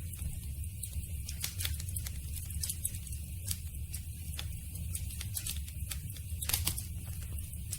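Campfire crackling: irregular pops and snaps of burning wood, several a second, over a steady low rumble and hiss, with one louder pop about six and a half seconds in.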